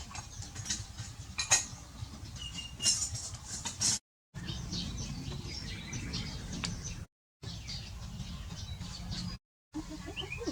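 Small birds chirping in short scattered calls over a steady low rumble, with a brief thin whistle a couple of seconds in. The sound cuts out to dead silence three times.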